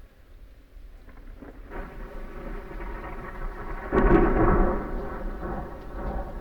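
Thunder rumbling with rain. It builds from about two seconds in to a loud peak about four seconds in, then fades.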